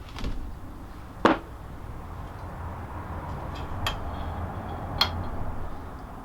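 Metal engine parts handled and set down on a workbench: three sharp clinks, the loudest about a second in and two fainter ones later, over a low steady hum.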